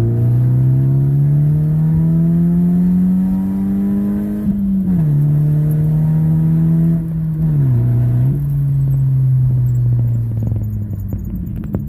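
Ford Focus engine running with the muffler cut out, under way in a manual car: the exhaust note climbs steadily as it accelerates, drops sharply at a gear change about five seconds in, dips briefly again around eight seconds, then holds steady and fades near the end.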